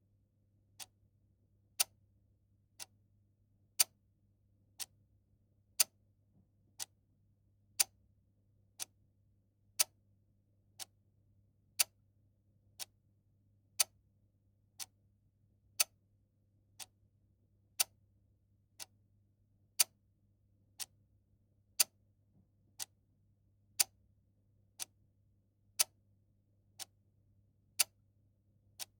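Clock ticking steadily about once a second, the ticks alternating louder and softer in a tick-tock pattern, over a faint low hum.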